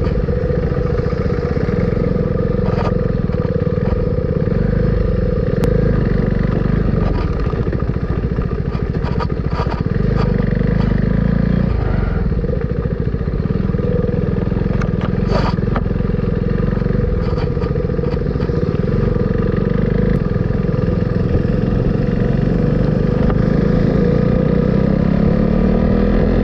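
Motorcycle running at cruising speed on a rough road, with a steady engine drone and road noise and a few short knocks.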